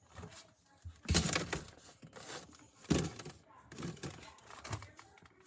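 A series of knocks and rustles, the loudest about a second in and another near three seconds.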